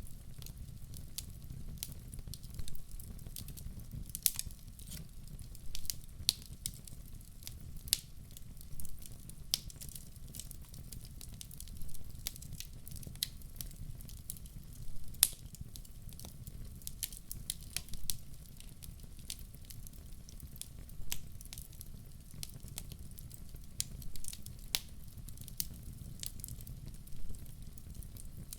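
Wood fire burning in a fireplace: a low steady rumble of flames with sharp, irregular crackles and pops from the burning logs.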